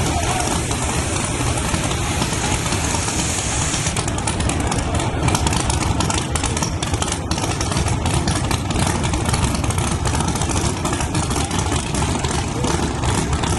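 Race-prepared S10 pickup's engine idling steadily, with a lot of short crackling over it.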